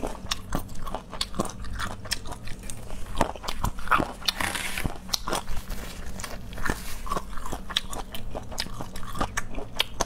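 Close-miked chewing and biting of sour-spicy boneless chicken feet: many short wet crunches and clicks as the rubbery skin and cartilage are chewed. A brief rustling hiss comes about halfway through.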